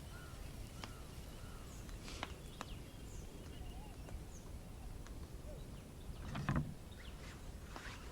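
Campfire crackling with scattered sharp pops over a low steady rumble, with a few short bird chirps, and a dull knock about six and a half seconds in.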